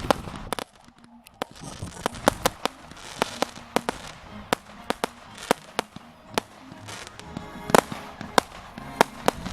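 A fireworks display: aerial fireworks going off in a string of sharp bangs and cracks, about one or two a second at irregular spacing, the loudest pair about eight seconds in. Music plays faintly underneath.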